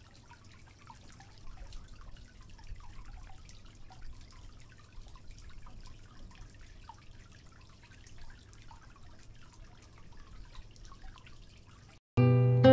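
Spring water trickling and dripping: a steady scatter of small quick plinks. Acoustic guitar music comes in just before the end.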